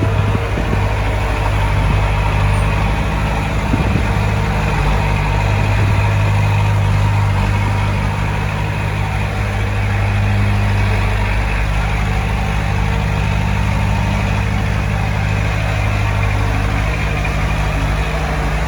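Heavy diesel engine of a bulldozer or dump truck running steadily with a low hum, with a few faint knocks in the first few seconds.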